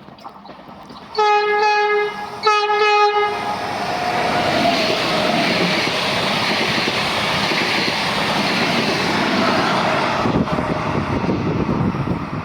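Train horn sounding two blasts of about a second each, then the loud, steady rush and rattle of a train running past, easing off near the end.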